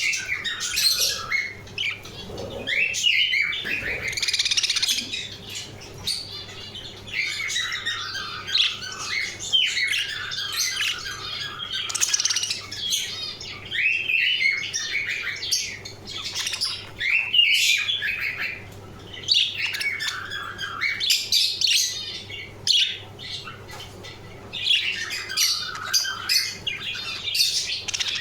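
Budgerigars chattering: a dense, continuous run of chirps, warbles and squawks, broken now and then by short pauses.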